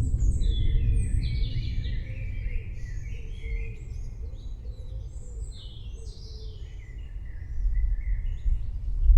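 Low rolling thunder rumbling, fading through the middle and swelling again near the end, with several songbirds chirping and singing over it.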